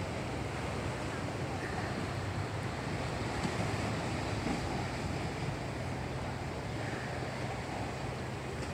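Boat under way: a steady rush of water and wind on the microphone over a low, steady hum.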